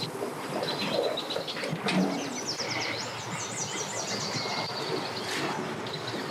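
Small songbirds chirping, with a quick run of high down-slurred notes in the middle, over a steady low rumble and a couple of sharp knocks.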